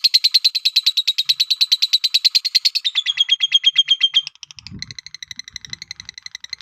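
Lovebird chattering in a fast, even trill of about a dozen high chirps a second. The trill drops a little in pitch about three seconds in, then turns quieter and thinner for the last couple of seconds.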